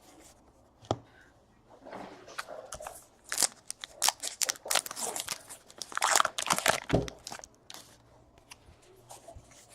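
Trading card pack wrapper crinkling and tearing in irregular bursts, with a light click about a second in and a dull thump near the end.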